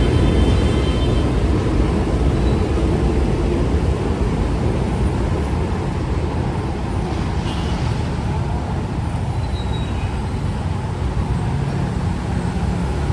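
Steady street traffic noise: the low engine rumble of cars and buses running along a busy road.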